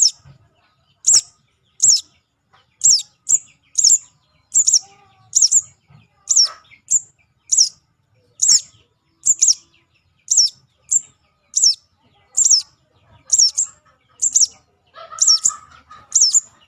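Juvenile sogon (crimson sunbird) calling: short, high-pitched chirps that slide downward, repeated about once a second, played as a bird-trapping lure call.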